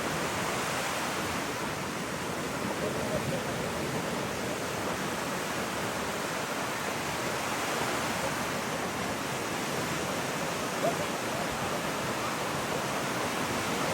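Steady rushing wash of surf breaking on the beach.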